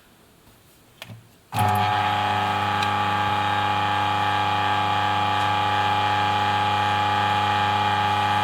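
Turin DF54 flat-burr coffee grinder: a click, then the motor starts about a second and a half in and runs with a steady hum and whine.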